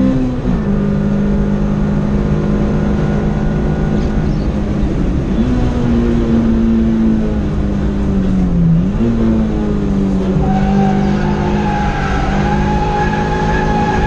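Honda Civic EK's B16A2 1.6-litre four-cylinder VTEC engine heard from inside the cabin, driven hard on track. Its pitch drops, rises and dips a few times with throttle and gear changes. A higher, wavering whine joins about ten seconds in.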